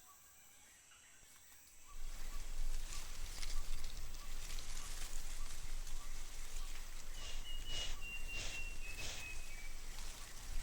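Tropical rainforest ambience: faint insect hum with a repeating short chirp, then about two seconds in a sudden change to a much louder steady hiss of rain falling through the forest. A bird's thin whistled note, dropping slightly in pitch, sounds over the rain late on.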